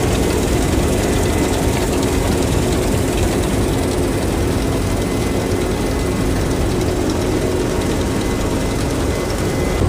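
Combine harvester running steadily while harvesting wheat: an even mechanical noise with a few faint steady tones in it.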